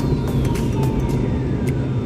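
Steady low rumble of an airliner's engines, with a thin high tone gliding steadily downward throughout and a few brief faint tones.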